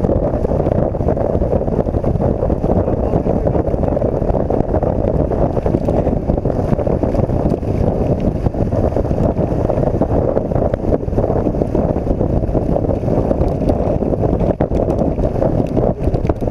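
Steady rush of wind on the microphone while riding a BMW R1200 GS Adventure motorcycle at road speed.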